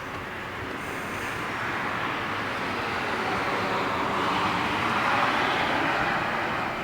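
A passing vehicle: a rushing noise that swells to a peak about five seconds in and then begins to fade.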